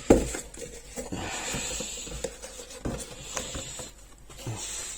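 Milk carton and milk pitcher being handled on a counter: a sharp knock at the start, then scratchy rustling for a second or so, then a couple more light knocks.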